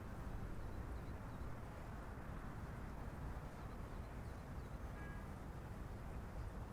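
Steady low hum of distant city traffic, with a few faint high bird chirps and a brief high tone about five seconds in.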